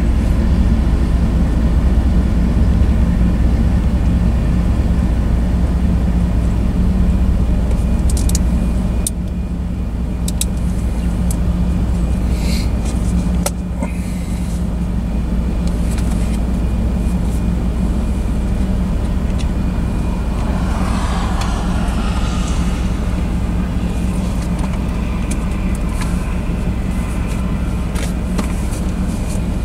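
Diesel freight locomotives running with a steady low drone as the train passes and moves away. Scattered clicks and rattles from the train are heard in the middle, and the drone drops a little twice.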